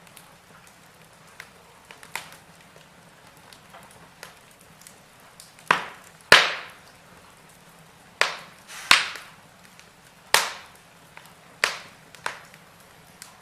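Wood fire crackling in a fireplace: a faint steady hiss broken by small ticks and, from about halfway through, a run of about seven sharp, loud pops, each dying away quickly.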